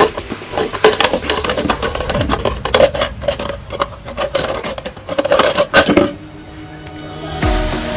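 Rapid, irregular clattering and tapping of hand tools working hard material, stopping about six seconds in. Background music comes in near the end.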